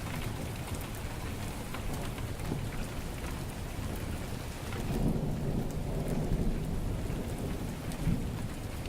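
Heavy rain falling steadily, with a low rumble of thunder swelling about five seconds in. A few sharp clicks are scattered through it, the crackle of a wood fire in the fireplace.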